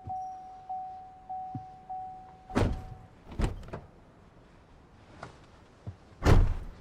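Car sounds: an electronic chime repeating about every half second, stopping about three seconds in, and three heavy thunks of car doors being shut, the last one loudest.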